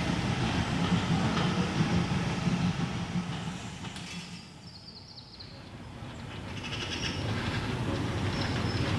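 A train running on the line, a steady rumble that fades to a low point about halfway through and then builds back up.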